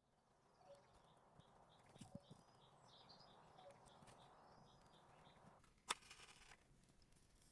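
Faint forest ambience with small birds chirping, a quick run of high chirps at about three a second in the first few seconds. A single sharp click or knock sounds about six seconds in.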